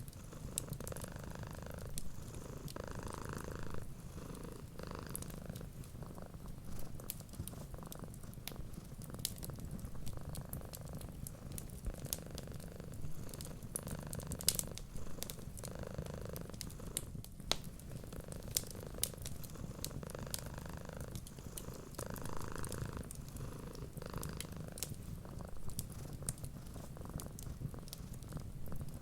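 A cat purring steadily, close up, the purr swelling and easing every few seconds, with the scattered small pops and crackles of a wood fire throughout.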